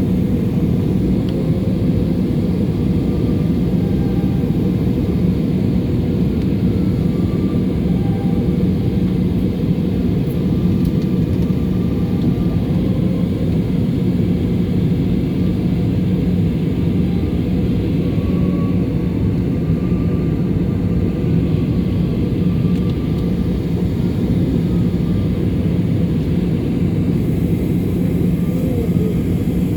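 Steady low rumble of a passenger airplane's cabin in flight: engine and airflow noise, unchanging throughout.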